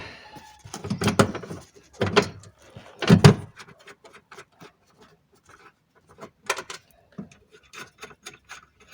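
Dull knocks and clunks in the first few seconds, then scattered light metallic clicks, as a car door's window regulator is worked loose and its nuts and bolts are undone.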